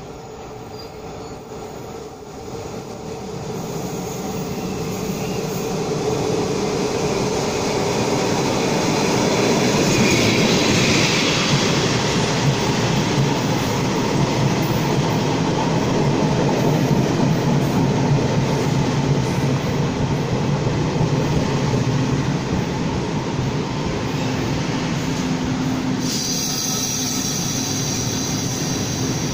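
A train running on the rails, a steady mechanical noise that grows louder over the first eight seconds or so and then holds, with a brighter, higher edge about ten seconds in.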